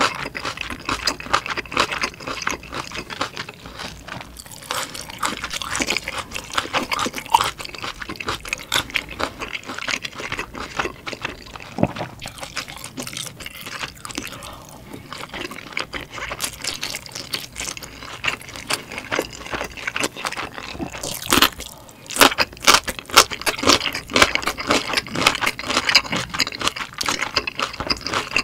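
Close-miked chewing of dumplings: wet, smacking mouth sounds in a dense, irregular run of small clicks.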